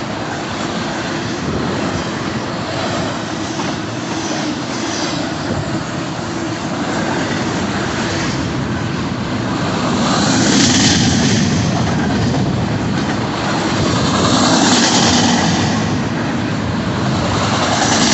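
Intermodal freight train cars rolling past: a steady rumble and rattle of steel wheels on the rails, swelling louder a few times in the second half.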